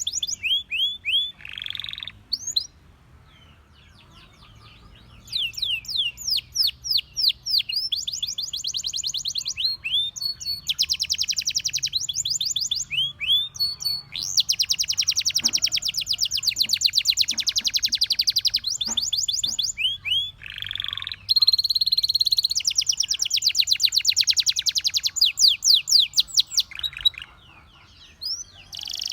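Canary singing: long, fast rolling trills of rapidly repeated high notes alternating with sweeping chirps, broken by a short quiet pause a few seconds in and another near the end.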